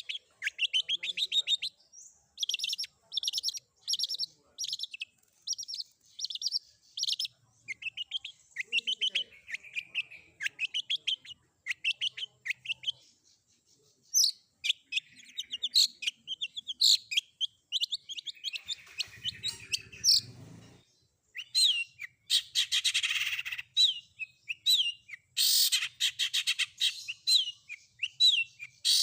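Long-tailed shrike (cendet) singing a fast, varied song of mimicked phrases: runs of sharp repeated chirps and trills broken by short pauses, with a denser stretch of rapid trills near the end.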